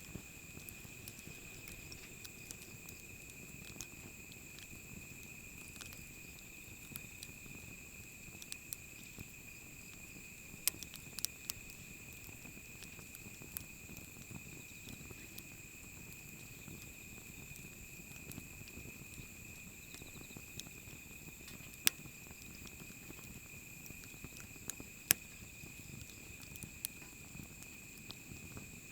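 Wood campfire burning with a low flame rumble and irregular crackles and sharp pops, two of them much louder in the last third. A steady high-pitched insect trill runs underneath.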